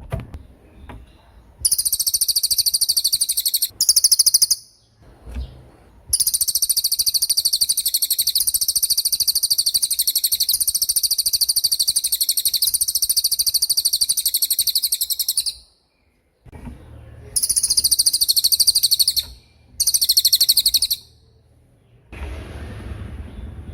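Cililin songbird singing its rapid-fire 'tembakan' song: very high, fast rattling trills in bursts, the longest running about nine seconds, with short pauses between them.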